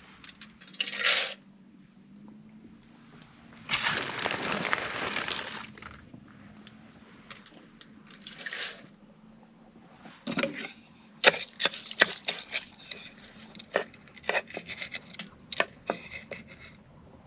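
Food-preparation handling sounds at a pan: a rush of pouring or rustling for about two seconds, starting about four seconds in, then a string of sharp clicks and knocks in the second half, with a faint steady hum underneath.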